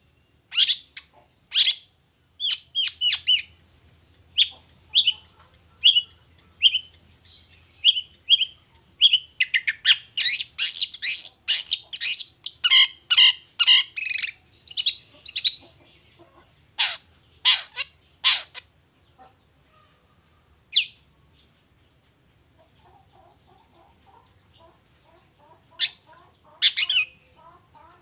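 Long-tailed shrike (cendet) singing in full voice. It starts with sharp, high notes spaced about half a second apart, breaks into a fast dense chatter of notes in the middle, drops to a quieter, lower twitter, and gives sharp calls again near the end.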